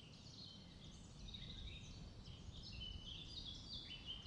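Small birds singing, a busy run of short high chirps and trills, over a low steady background rumble.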